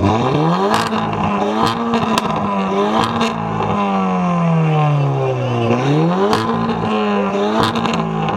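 A car engine revving hard: the pitch climbs and holds, falls away slowly, then climbs sharply again about six seconds in, with several sharp exhaust pops along the way.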